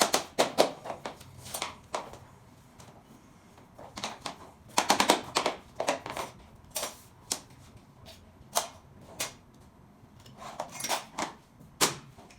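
Sharp taps and knocks on rigid SPC stone-plastic floor planks, in quick runs of several strikes with short pauses between, as the planks are knocked together into their click-lock joints.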